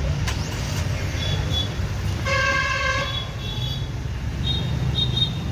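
Steady low road-traffic rumble with a vehicle horn honking once for just under a second, about two seconds in. Short high-pitched beeps come and go around it.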